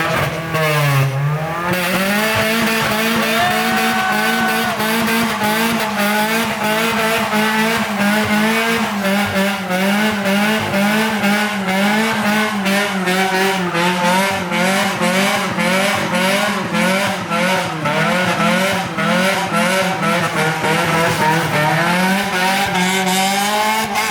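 A car doing a long burnout, with the tyres squealing. Its engine revs climb in the first couple of seconds, are held high and steady with a slight waver for about twenty seconds, then drop near the end.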